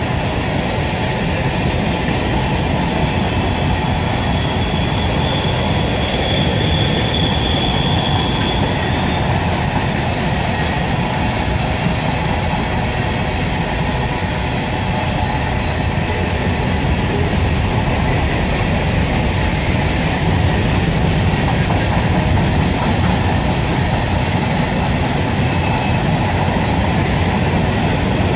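Covered hopper cars of a freight train rolling past close by: the steady rumble and clatter of steel wheels over the rail joints. About four seconds in, a thin high wheel squeal rings for several seconds.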